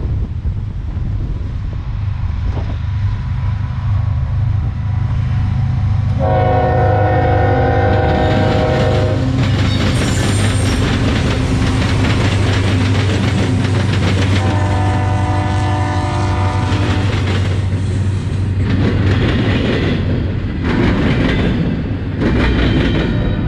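Diesel freight locomotive passing close, its engine rumbling steadily while its air horn sounds two long chord blasts of about three seconds each, some eight seconds apart. Near the end, wheels of the train's cars clatter past.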